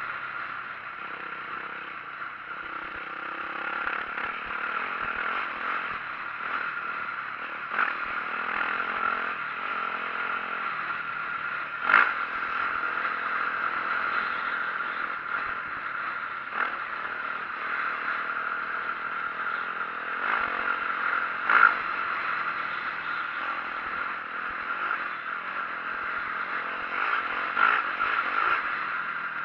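2004 Yamaha YZ450F four-stroke single-cylinder dirt bike running while being ridden, its engine note shifting with the throttle. Over it are a constant rattle and clatter and a few sharp knocks from bumps, two of them louder than the rest.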